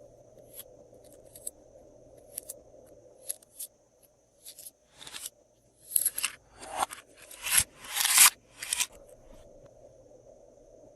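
Slime being worked by hand: scattered small clicks, then a run of louder crackling, squelching bursts in the second half.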